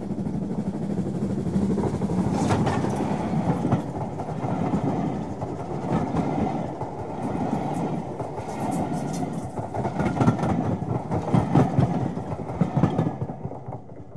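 A train passing close by: wheels rumbling and clacking over rail joints, dropping away near the end.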